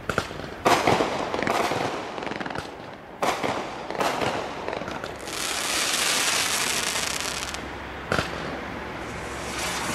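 Fisherman FP6609 'Nightmare' firework cake firing, with sharp bangs of shots launching and bursting scattered through. A long hiss of about two seconds comes midway.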